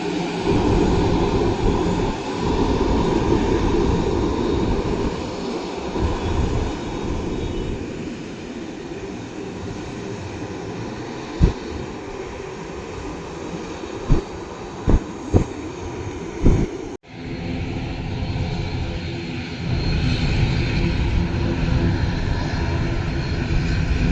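Jet airliner engines running with a deep, steady rumble. A few sharp knocks come in the second half. The sound then cuts out for an instant and comes back steadier, with faint steady tones in it.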